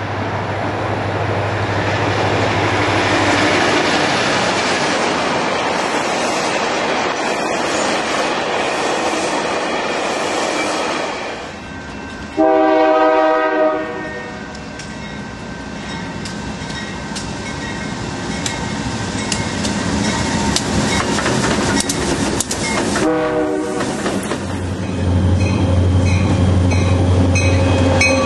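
A passenger train rolls past with steady wheel-on-rail noise. After a cut, a diesel freight locomotive sounds its multi-chime air horn in one long blast and, about ten seconds later, a short one. The locomotives then pass close by with a steady low diesel engine rumble.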